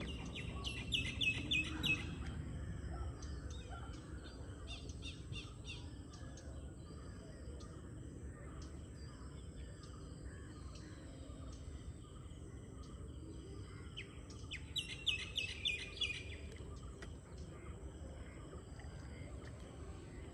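Birds calling at dawn: a quick run of short, high chirps in the first couple of seconds and another around fifteen seconds in, with scattered single notes between, over a steady low background rumble.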